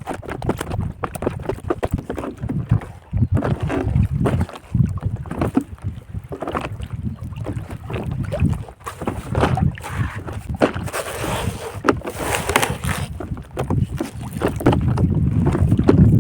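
Wind buffeting the microphone, with water splashing and knocking as a rohu is worked free of a gill net in the river. There is a louder hissing splash about eleven to thirteen seconds in.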